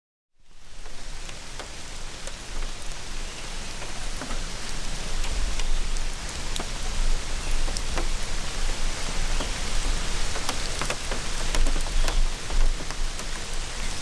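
Heavy rain pouring down in a severe wind storm, with many sharp hits of drops and a gusting low rumble of wind on the microphone. It starts abruptly about half a second in and gets heavier as it goes.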